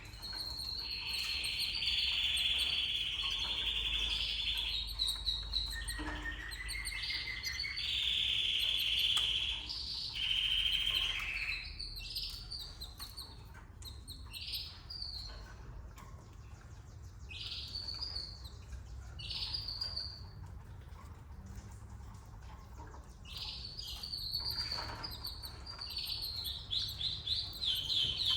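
Domestic canary singing: several long trills of a second or two each, then shorter separate notes, and a fast run of repeated notes near the end.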